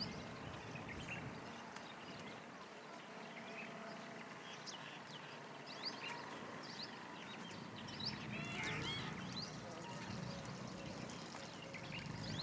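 Many short, high bird chirps and whistles scattered over a steady hiss, with a busier run of calls about two-thirds of the way in.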